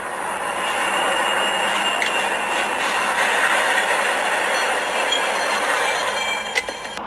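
Steady rushing noise of a moving vehicle, with a few faint high squeals and a click or two near the end.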